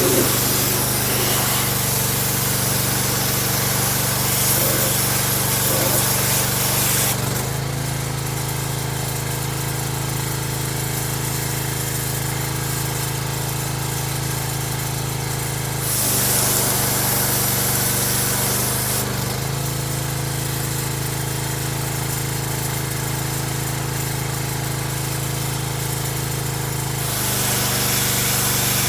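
An engine running steadily while a loud hissing spray starts and stops: on for the first seven seconds, again for about three seconds in the middle, and once more near the end.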